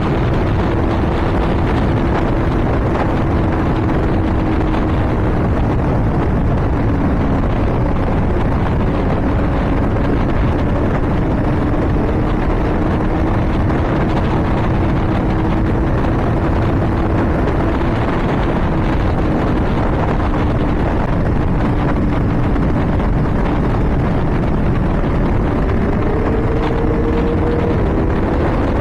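Honda CBR600RR inline-four engine running at high revs at speed, a steady note over heavy wind rush. The pitch dips slightly a few times and climbs near the end.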